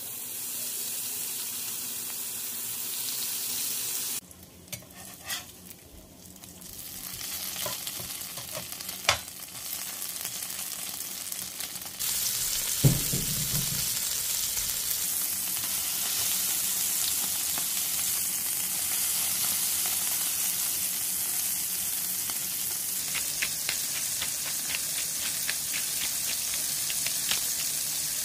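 Bacon and then beef burger patties sizzling in their fat on a flat-top griddle, a steady frying hiss that jumps louder about twelve seconds in. Scattered sharp pops of fat, one loud one about nine seconds in, and a brief low thud just after the jump.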